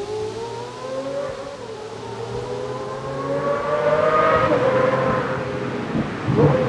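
Pagani Zonda Tricolore's AMG V12 exhaust, heard close up, accelerating hard with the engine note rising in pitch and getting louder. About six seconds in the note breaks briefly with a short crackle before climbing again.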